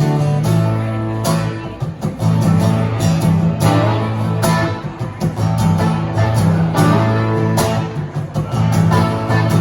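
Guitar playing an instrumental break in a slow soul song, strummed chords over steady low notes with no singing.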